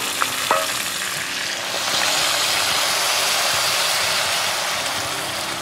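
Stew ingredients sizzling in a pot over a campfire: a steady hiss that swells about two seconds in and eases off near the end.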